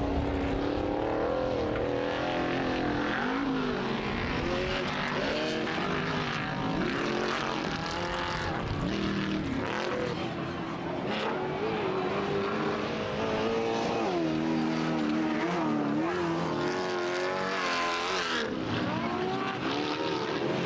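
Race vehicle engines revving hard on a dirt course, the pitch rising and falling over and over as the throttle is worked through corners and whoops.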